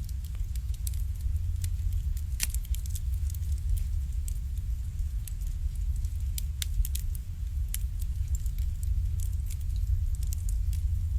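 Wood fire burning in an irori (Japanese sunken hearth), crackling with scattered sharp pops over a steady low rumble. The loudest pop comes about two and a half seconds in.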